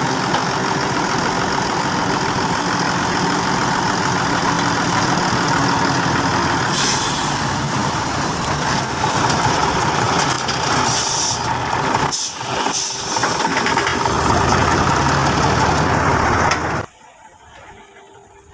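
Heavy truck engine running loudly and steadily, with several short hisses about seven, eleven and twelve seconds in. The sound cuts off abruptly near the end.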